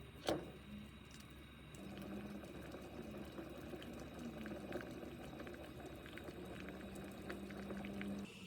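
Liquid boiling in a pot on the stove, a steady bubbling that starts about two seconds in and stops abruptly near the end, after a single sharp click about a quarter second in.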